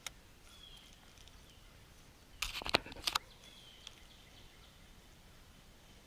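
Faint bird chirps in the background, with a brief cluster of sharp knocks and clatter about two and a half seconds in, the loudest sound.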